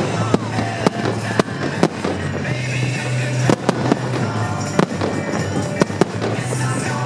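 Fireworks bursting overhead: repeated sharp bangs at irregular intervals, over music playing throughout.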